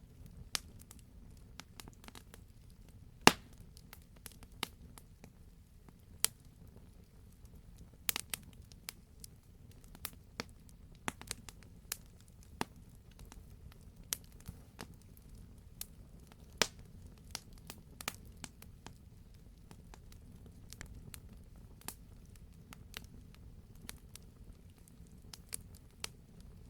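Wood fire in a fireplace crackling, with irregular sharp pops, the loudest about three seconds in, over a steady low rumble.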